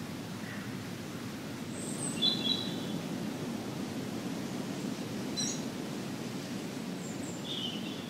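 A few short, high bird calls, about five, scattered over a few seconds, heard over a steady low rushing background noise.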